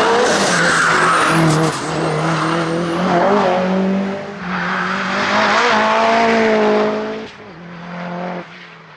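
Mitsubishi Evo 8 RS hillclimb car's Eggenberger 2-litre turbocharged four-cylinder engine running hard at high revs. Its note climbs and breaks off at each gear change, then falls quieter about seven seconds in.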